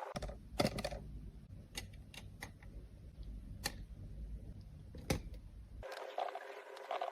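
A few sharp, light clicks and taps, as of cosmetic cases and tools being handled, over a low handling rumble. About six seconds in, a rasping scrape starts, as of powder or product being scraped.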